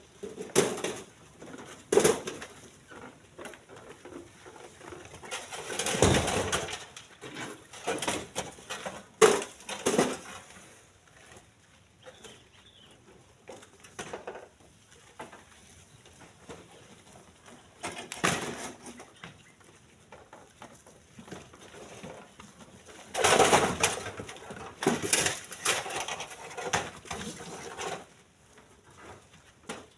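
Split stones being thrown by hand into a truck bed, landing in irregular clattering knocks a few seconds apart, with a longer run of clattering rock near the end.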